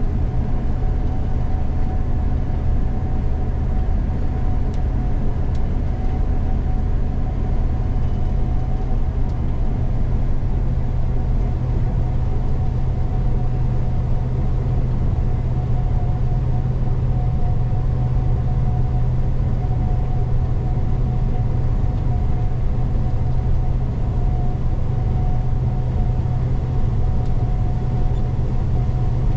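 Gleaner combine running steadily while harvesting soybeans: an unchanging machine drone with a deep hum and a thin steady whine above it.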